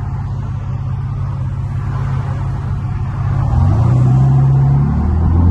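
Infiniti G37's 3.7-litre V6 running at low speed, a steady low drone; about three and a half seconds in the engine note rises and gets louder as it picks up revs, shifting again near the end.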